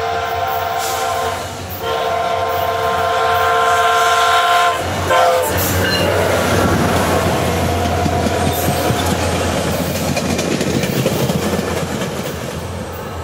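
SunRail commuter train's locomotive horn sounding a steady chord in two long blasts, a brief break between them, then a short toot about five seconds in. The locomotive and double-deck coaches then pass close by with a loud rumble and wheel clatter that slowly fades near the end.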